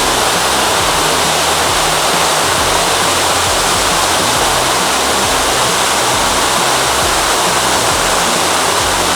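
Steady rush of a waterfall, with background music's low bass line underneath.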